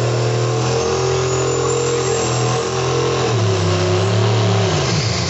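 Tractor-pull tractor's engine running hard under full load. Its pitch steps down about three seconds in and falls away near the end as the revs drop. A faint high whine rises in the first couple of seconds.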